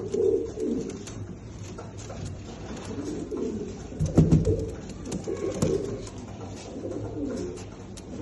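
Domestic fancy pigeons cooing repeatedly, with a louder clatter of sharp knocks about halfway through.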